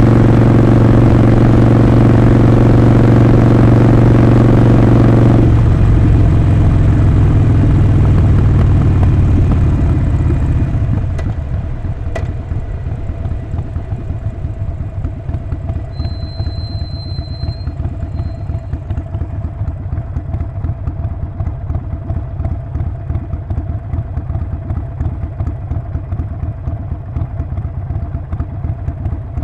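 Harley-Davidson Sportster 48's 1200 cc V-twin engine and exhaust running steadily under power, then backing off about five seconds in. By about ten seconds in it settles to a lumpy, pulsing idle.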